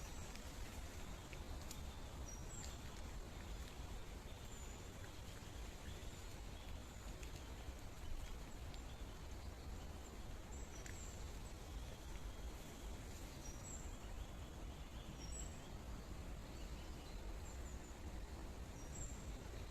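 Steady rush of flowing water, with small birds giving short, high chirps that fall slightly in pitch, repeating every second or two.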